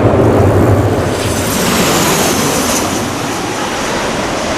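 Jet airliner engines passing close by: a loud rumble with a high whine that falls in pitch, then cuts off abruptly a little past halfway, leaving a steady rushing noise.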